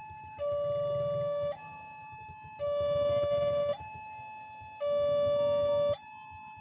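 Electronic warning alarm of a railway level-crossing barrier, a two-tone signal that swaps back and forth about once a second between a louder low tone and a softer higher tone, with the low tone sounding three times.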